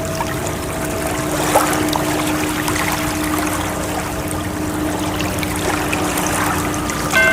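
Steady rushing, trickling water with a few soft, steady held tones over it, like a drone; near the end a higher tone comes in.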